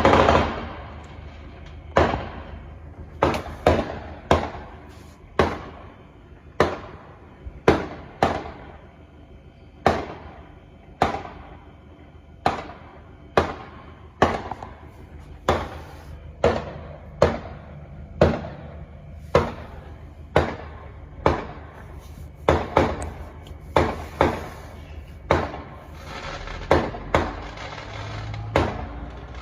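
Fireworks going off in a long steady series: a sharp bang about once a second, each trailing off in an echo.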